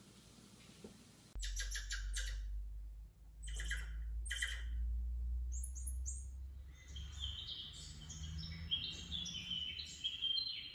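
Birds calling: a few short harsh calls, then a run of quick high chirps stepping up and down in pitch, over a steady low rumble.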